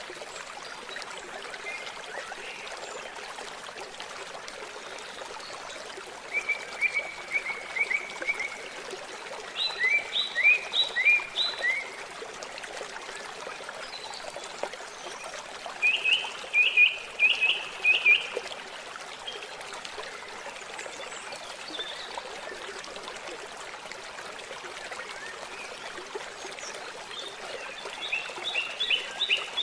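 Steady trickle of water under birdsong: four short phrases of quick, high chirping notes, the first about six seconds in and the last near the end.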